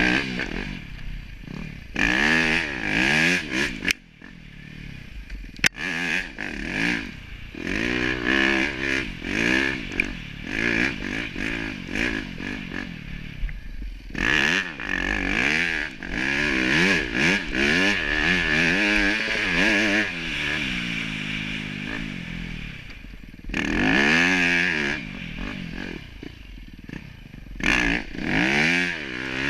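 Snow bikes (dirt bikes converted with a ski and track) being ridden, their engines revving up and falling back over and over, with a few short lulls between runs.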